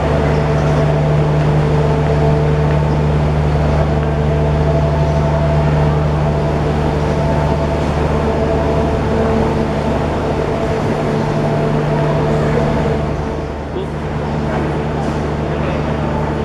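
Steady hum of a diesel train, with a brief dip about 13 seconds in.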